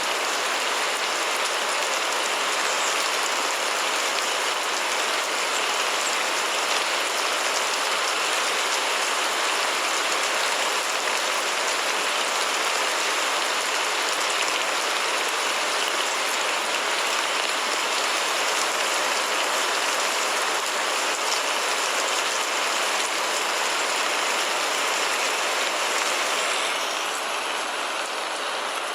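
Steady rain, an even dense hiss with faint scattered drop ticks; it drops a little in level about two seconds before the end.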